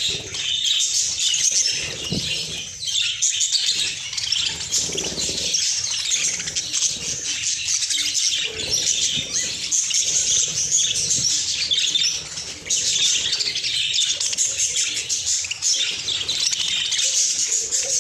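A flock of budgerigars chattering and chirping continuously, many high, quick calls overlapping.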